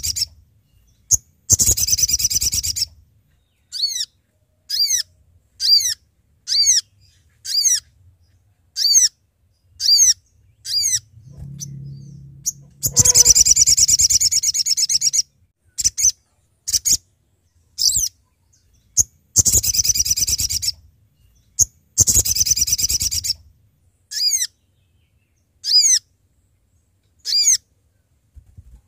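Little spiderhunter (sogok ontong) calling: a series of sharp, high, down-slurred notes about one a second, broken four times by rapid chattering bursts of about a second and a half each.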